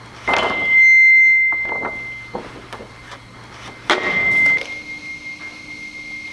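Amplified drawing on paper: a few scratchy strokes, with a high, steady ringing tone laid over them that is loudest about a second in, fades, and comes back about four seconds in.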